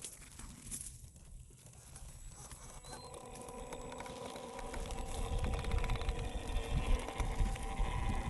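Electric motor and gearbox of a WPL B36 Ural 6x6 RC truck whining steadily as it drives. The whine comes in about three seconds in and grows louder, with a low rumble and small crackles from the wheels on rough ground.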